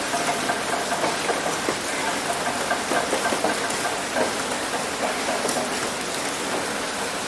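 Heavy rain hitting a roof: a dense, steady patter of drops with small sharper taps scattered through it.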